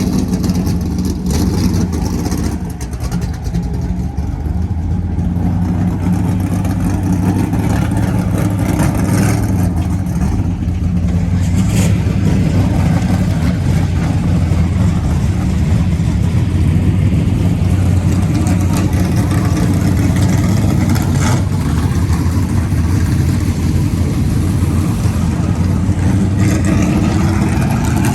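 Car engine idling loudly with a steady low rumble, its pitch holding even throughout.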